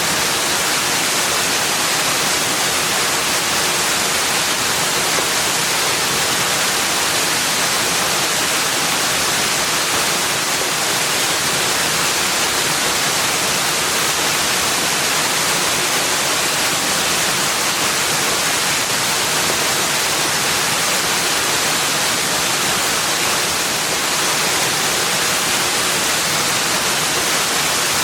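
Steady rushing of running or falling water, an even hiss strongest in the higher range, unchanging in level throughout.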